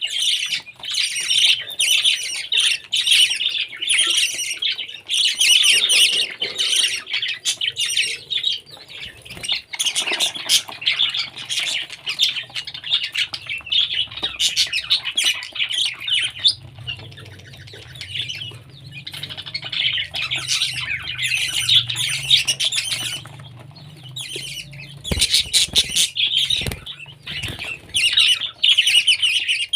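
Parrot squawking and chattering in a fast, continuous stream of shrill calls, with short lulls twice. A low steady hum runs underneath through the middle part.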